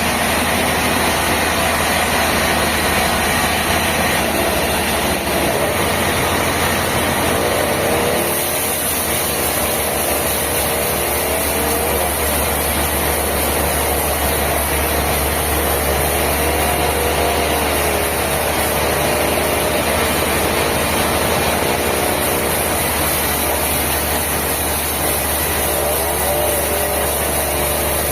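Sawmill machinery running with a steady, loud engine-like drone. About eight seconds in, the low hum and the high hiss both grow stronger, with a wavering tone in the middle that comes and goes.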